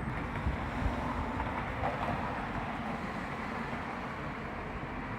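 Steady low rumbling background noise outdoors, even throughout with no distinct events.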